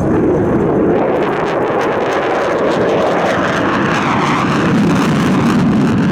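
Loud engine noise of a military jet taking off: a steady, dense rush whose pitch shifts as the aircraft passes.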